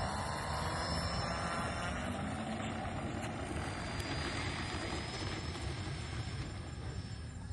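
Radio-controlled model airplane's motor and propeller. It rises in pitch at the start as it speeds up, then holds a steady whining drone.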